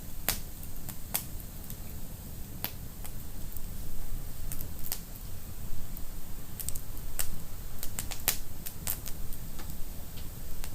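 Wood fire crackling in a fireplace: irregular sharp pops and snaps over a steady low rumble of the flames, coming more often in the second half.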